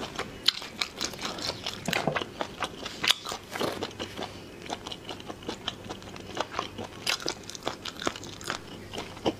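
Close-miked chewing of spicy snail meat: many short, irregular mouth clicks and smacks.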